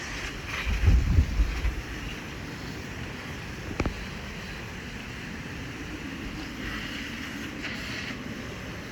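Wind buffeting the microphone in heavy gusts for the first two seconds, over a steady rushing hiss of a hose spraying water on crawfish being rinsed clean. A single sharp knock a little before halfway.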